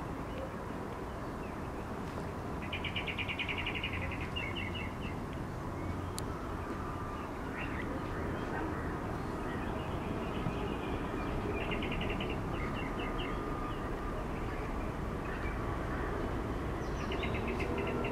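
A bird calling three times, each call a fast trill of rapid notes followed by a few short chirps, over a steady low rumbling background.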